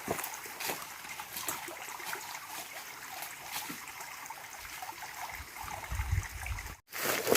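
Water trickling and gurgling steadily, with many small scattered clicks. Near the end the sound cuts out abruptly and a louder sound follows.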